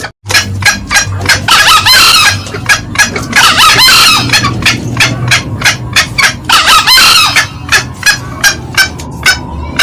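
Green junglefowl calling loudly: short cackling notes repeating about three to four times a second, with three longer crows about two to three seconds apart.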